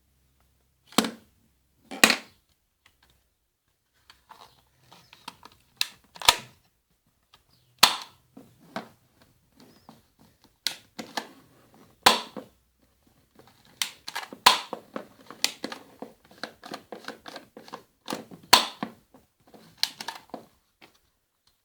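Airsoft Beretta M9 pistol firing single shots, each a sharp crack, spaced from about one to several seconds apart. Many smaller clicks and rattles fall between the shots, thickest in the second half.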